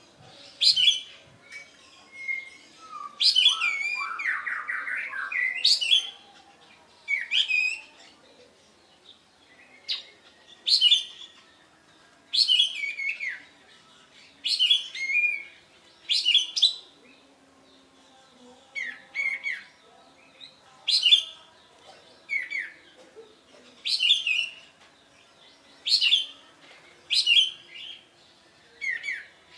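Kapas tembak songbird singing: short, sharp, high whistled phrases, mostly falling in pitch, repeated every second or two, with one longer, lower warbling phrase a few seconds in.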